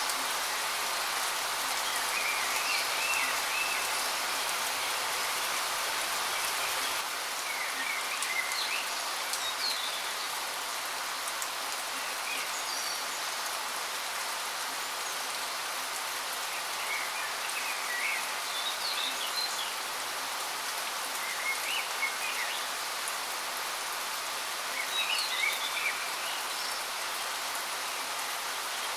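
Steady rushing hiss of a waterfall, with birds chirping in short scattered bursts every few seconds.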